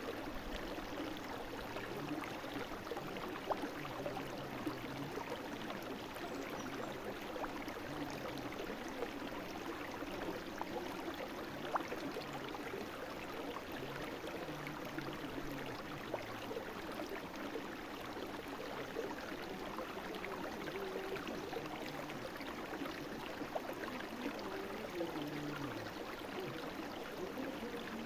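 Brook water flowing steadily and gurgling, with small scattered splashes.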